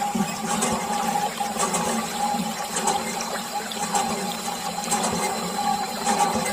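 Small toy water pump running steadily with a hum, water gushing and splashing from it, with a faint regular pulse about once a second.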